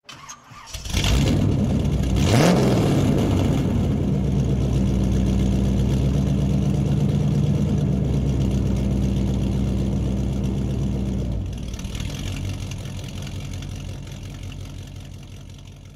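Car engine starting up and revving once, rising in pitch, then running steadily before slowly fading out over the last few seconds.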